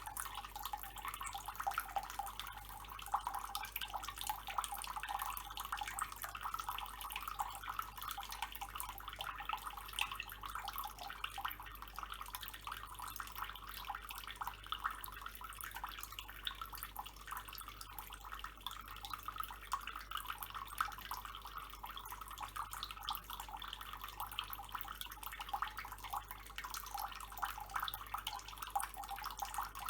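Water running steadily from a tap and splashing, with a dense spatter of small drips.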